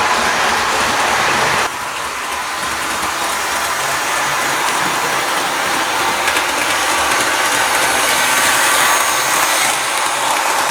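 Bachmann HO scale model train running on its track: a steady whir of the locomotive's small electric motor with the rattle of its wheels on the rails. The sound shifts abruptly, getting a little quieter, about two seconds in.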